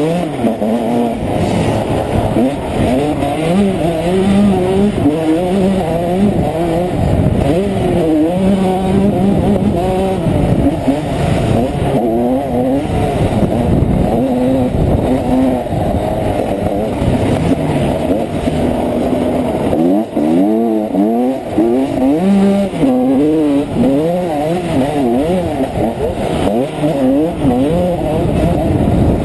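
Honda CR125's two-stroke single-cylinder engine being ridden hard, revving up and dropping back again and again as the throttle is worked and gears are shifted.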